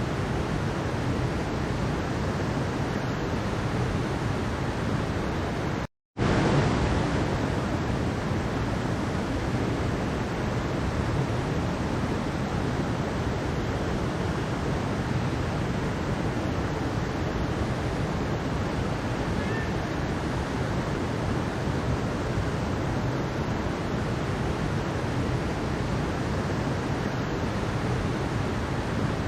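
Mountain stream water rushing steadily over rocks, an even continuous rush. About six seconds in it cuts out to silence for a split second and resumes, like a loop seam.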